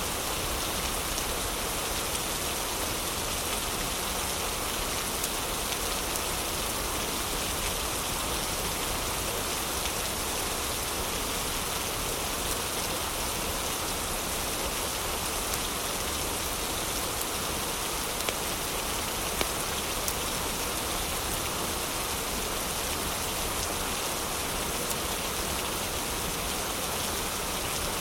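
Heavy rain falling steadily: a dense, even hiss with a few brief ticks of individual drops.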